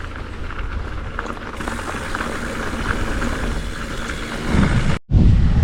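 Mountain bike riding on a dirt singletrack trail: a steady gritty crackle of tyres over dirt and small rattles, under a low rumble of wind on the microphone. The sound drops out for a moment near the end, then the wind rumble comes back louder.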